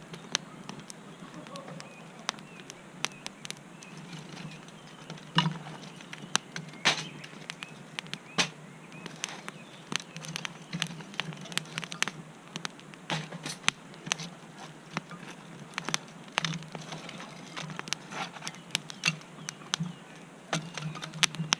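Small wood campfire crackling, with irregular sharp pops several times a second.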